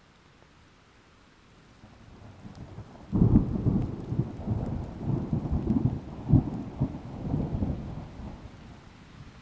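Thunder: a low rumble builds, breaks loudly about three seconds in and rolls in uneven peaks for several seconds before fading, over faint steady rain.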